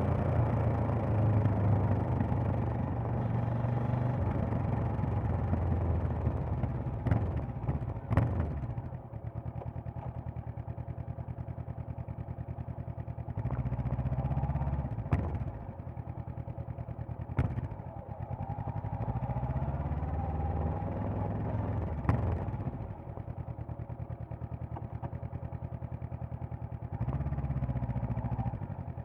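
Honda CB500X's parallel-twin engine and exhaust in stop-and-go riding: pulling under throttle, then dropping back to an even idle, with several short bursts of throttle between idle stretches. Sharp clicks come now and then, mostly as the throttle closes.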